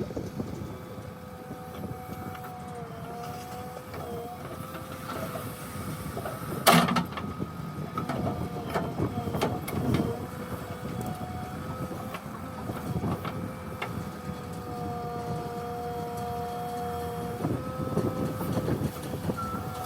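JCB 3DX backhoe loader working, its diesel engine and hydraulics running with a steady whine that wavers in pitch as the load changes, and scattered metal knocks and clanks. One loud knock about seven seconds in.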